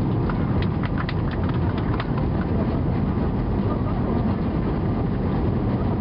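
Airbus A320 cabin noise heard from a seat over the wing: a loud, steady low roar of the engines and airflow, with a quick series of sharp clicks and rattles in the first two seconds.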